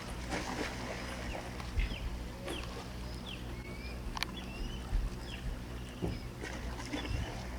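Gulls calling: a string of short, high calls with quick upward and downward slides, coming every second or so, over a steady low rumble.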